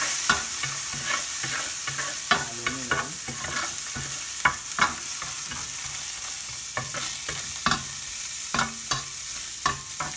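Minced garlic and browned pork pieces sizzling in hot oil in a stainless steel pot, stirred with a spatula that scrapes and taps against the pot now and then. The garlic is being sautéed toward golden brown.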